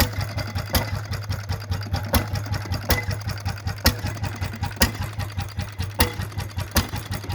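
Hot-bulb engine running with a low steady hum and a fast mechanical clatter, cut by sharp, loud bangs about once a second at uneven intervals.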